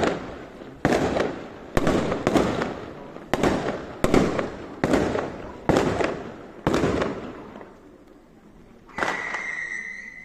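Fireworks going off in a string: about nine loud separate bangs, roughly one a second, each echoing away. They are followed near the end by a sudden, steady high-pitched whistle.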